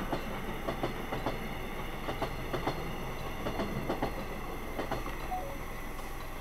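Wheels of Mugunghwa-ho passenger coaches clacking over the rail joints as the train runs through the level crossing, the knocks coming in quick pairs as each bogie passes, over a steady rumble. The clacking ends about five seconds in as the last coach clears the crossing. Heard from inside a car.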